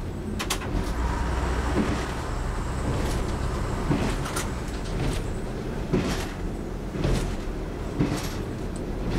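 Class 101 diesel multiple unit under way: a steady low rumble of engine and wheels on rail, with sharp knocks about once a second.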